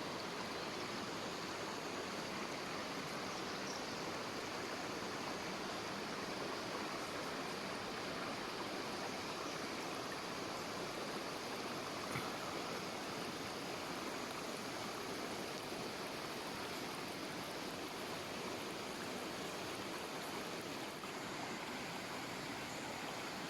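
River water flowing steadily, an even, continuous rush, with one faint tick about halfway through.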